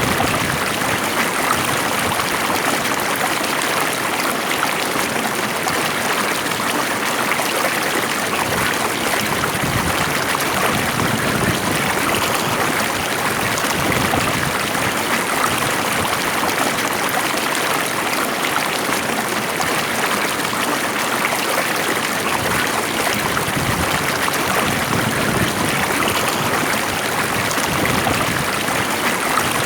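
Stream water flowing and trickling steadily, a continuous even rush of running water.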